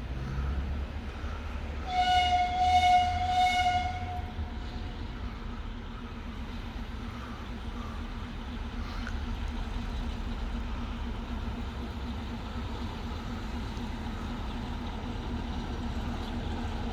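ADM-13 track-maintenance railcar sounding its typhon horn: one loud, steady note about two seconds in, held for about two and a half seconds. The railcar's diesel engine runs steadily before and after it.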